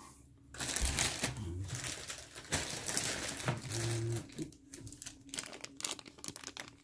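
Plastic bags of miniatures crinkling as they are handled and sorted.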